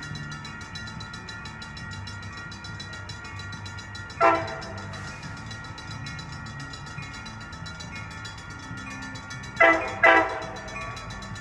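Train horn giving short toots: one about four seconds in, then two quick ones close together near the end, over a steady low rumble.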